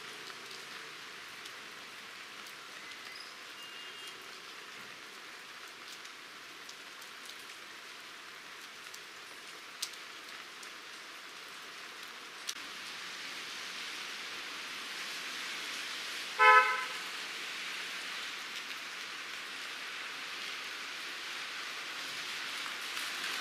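Steady rain falling on a wet paved road, its hiss growing a little heavier in the second half. About two-thirds of the way through, a car horn gives one short toot, the loudest sound, and two faint sharp clicks come a few seconds before it.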